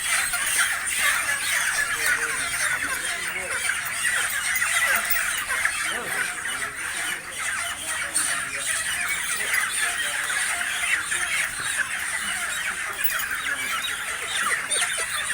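A large crowd of broiler chickens squawking and squealing together without a break, many overlapping calls at once.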